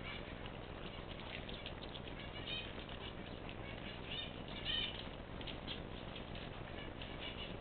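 Small cage birds chirping in short, high peeps scattered throughout, with a louder cluster of calls about four to five seconds in, over a steady background hiss.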